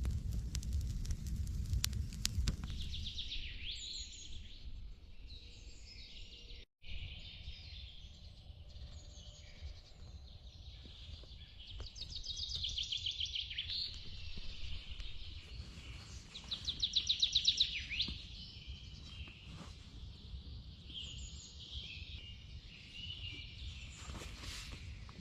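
Forest songbirds singing, with scattered chirps and two fast trills, one about halfway through and a louder one a little later, over a steady low outdoor rumble. A few sharp clicks come in the first couple of seconds.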